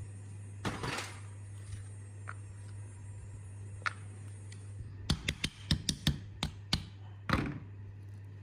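Hand work on hard parts: a knock about a second in and a few light ticks, then a quick run of about eight sharp taps, and one heavier knock near the end. A steady low hum runs underneath.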